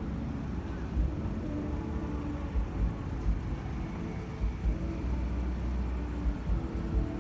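City road traffic running steadily, with engine hum and tyre noise, and irregular low bumps throughout.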